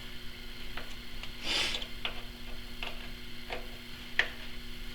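Scattered light metallic clicks and taps, with a brief scraping rustle about a second and a half in, from hands adjusting tooling and dials on a stopped metal lathe, over a faint steady hum.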